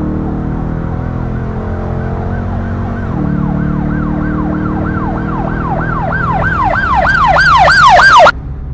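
A siren in a fast rise-and-fall yelp, about three sweeps a second, growing louder and then cutting off abruptly near the end, over a car engine running steadily.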